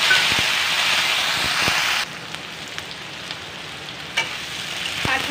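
Chunks of raw jackfruit sizzling loudly in hot mustard oil in a wok just after going in. About two seconds in, the sizzle drops suddenly to a quieter frying hiss. A metal spatula stirs the pieces, with a few light clicks and a knock against the pan.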